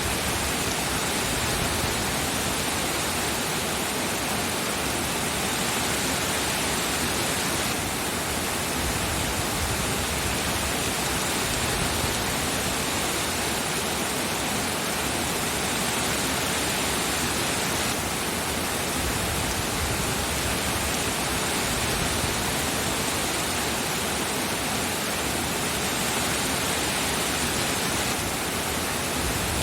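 Steady, dense rain: an even hiss with no single drops or thunder standing out.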